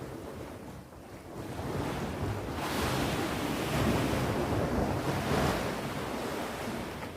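Sea waves breaking and washing up on the shore. The surge eases about a second in, then a wave builds from about two and a half seconds in and slowly subsides.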